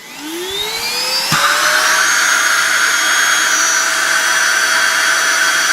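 Novete VT-DH005 cordless handheld vacuum cleaner switched on: its motor spins up with a whine rising in pitch over about two seconds, then runs at a steady high pitch with airflow rush. A brief knock sounds about a second in.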